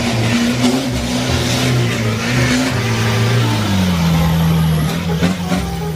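A motor running steadily with a hiss over it, its pitch dropping lower about four seconds in, like a car engine easing off.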